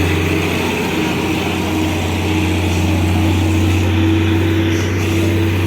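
Heavy vehicle engine running steadily, a low unbroken drone with a fainter steady tone above it.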